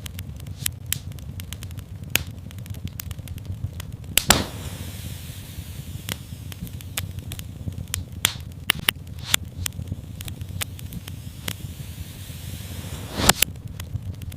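Wood fire in a fireplace crackling, with a steady low rumble under frequent small pops. Two louder pops come about four seconds in and near the end, with a soft hiss between them.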